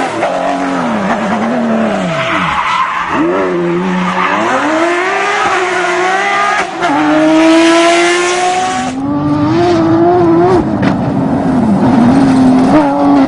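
Porsche 911 GT3 rally car's flat-six engine revving hard at speed. The pitch drops sharply twice in the first few seconds, then climbs in rising steps through the gears, and the sound changes suddenly about nine seconds in.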